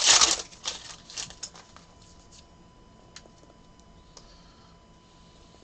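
Trading cards being handled: a loud papery rustle at the start, then scattered light clicks and taps for about two seconds, then only a couple of faint ticks.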